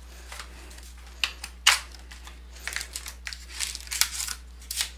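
Plastic wrapping crinkling and tearing in irregular sharp crackles as a sealed trading-card box is opened, the loudest crackle about a second and a half in, over a low steady hum.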